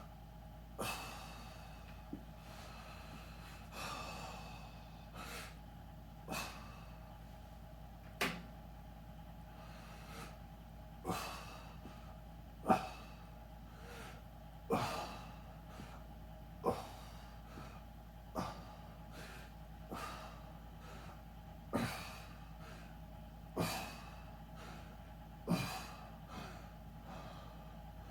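A person exercising, breathing out sharply about once every two seconds in time with the repetitions, over a steady low hum.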